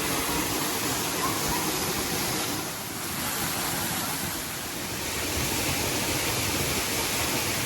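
Waterfall's rushing water, a steady loud hiss, dipping slightly about three seconds in.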